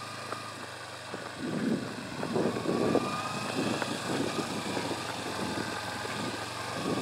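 Yamaha 250 motorcycle engine running, steady and low at first, then louder and rougher from about a second and a half in as the bike gets going under throttle.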